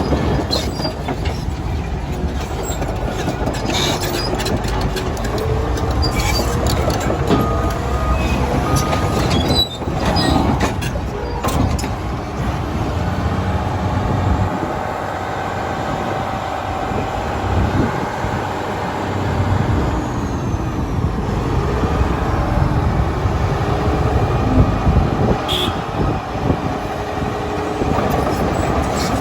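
Caterpillar D8T crawler bulldozer's diesel engine running under load, with its steel tracks clanking and squealing. There are scattered knocks and clicks over a steady low rumble.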